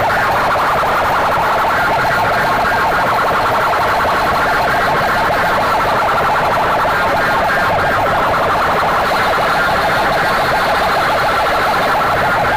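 Very loud, heavily distorted output of DJ sound boxes blasting at full volume in a sound-box competition. It is a harsh, unbroken siren-like wail with no pause.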